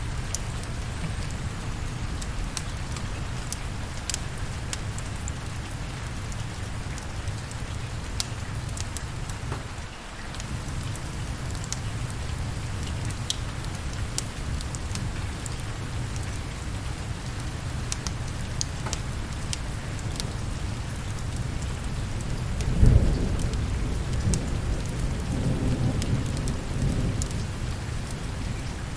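Steady rain, with scattered sharp ticks and crackles over it. About three-quarters of the way through, a sudden thunderclap rolls into rumbling thunder lasting a few seconds.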